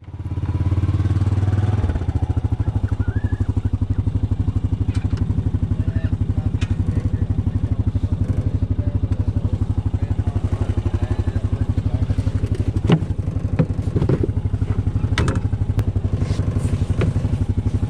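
Dirt bike engine running at a steady, evenly pulsing idle, a little louder for the first couple of seconds, with a few clicks and knocks in the second half.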